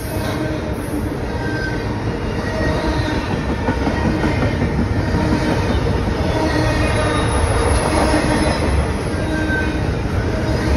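Double-stack container freight train rolling past: a steady rumble and rattle of the well cars' wheels on the rails, with brief faint wheel squeals now and then.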